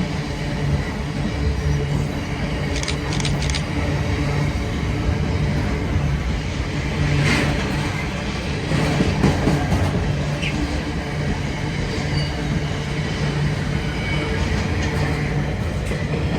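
Diesel train engine running steadily with a low hum, with a few brief clicks about three seconds in and a louder rush of noise about seven seconds in.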